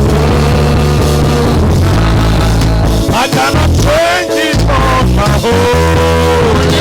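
Loud live church worship music with a steady bass line and a sung melody.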